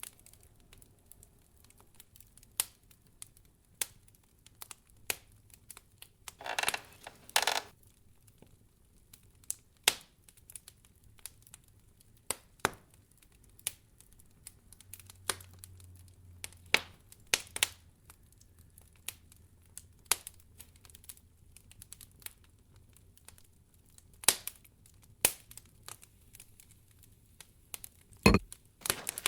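Wood fire crackling in a fireplace: sparse, irregular sharp pops over a quiet background, with a short, denser crackling rustle about six to seven seconds in.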